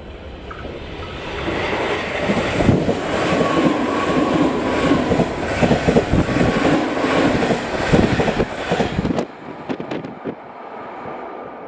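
JR Shikoku 8000 series electric express train passing close by, its wheels clacking over the rail joints. It builds as it approaches, cuts off sharply about nine seconds in as the last car goes by, and leaves a fading rumble.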